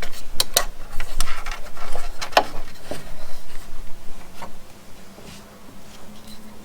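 Handling noises from work on car wiring and small parts: a quick series of sharp clicks and taps in the first three seconds, then only a few faint taps over a low hum.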